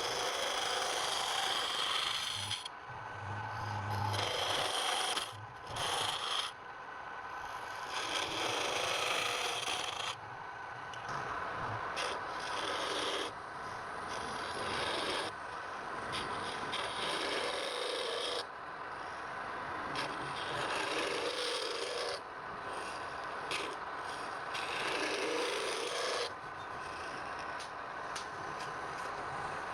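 Wood being abraded by hand, rough rubbing and rasping strokes that change every second or two, over a faint steady hum.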